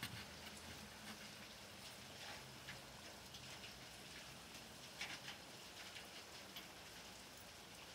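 Rain falling: a faint, steady hiss with scattered single drops tapping close by, the sharpest about five seconds in.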